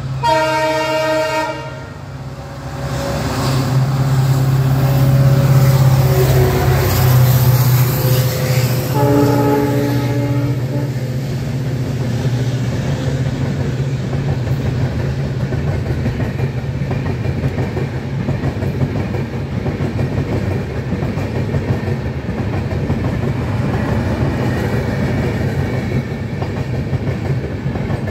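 A train horn blows a chord-like blast in the first two seconds and again, shorter, about nine seconds in. Meanwhile a passing passenger train rumbles and clatters over the rails on the next track, loudest a few seconds in, over a steady low engine drone.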